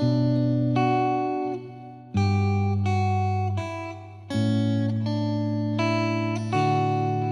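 Background music: a guitar playing chords, a new chord struck about every two seconds and left to ring out.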